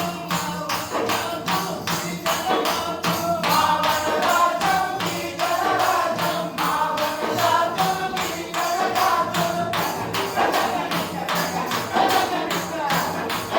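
A man singing a folk song with steady hand-percussion beats, about three or four a second.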